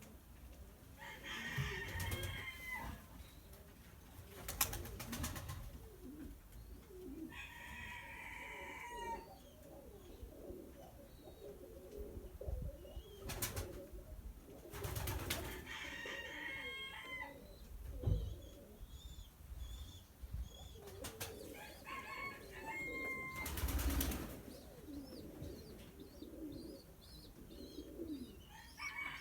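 Domestic pigeons cooing. Short, higher-pitched bird calls break in about every six seconds, with a few thumps between them.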